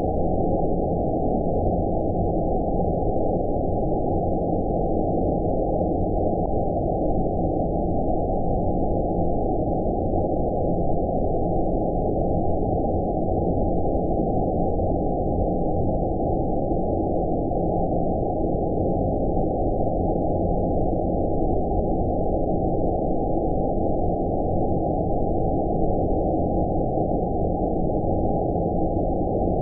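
Steady, deep, muffled rushing noise with all the high end cut away: a synthetic 'outer space' ambient noise track for sleep, unchanging in level.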